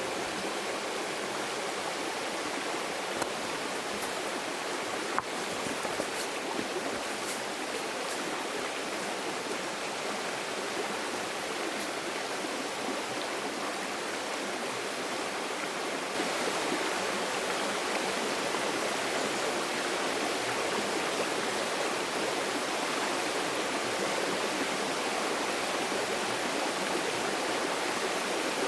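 Steady rush of a flowing stream, with a few faint clicks in the first half; the water gets slightly louder about 16 seconds in.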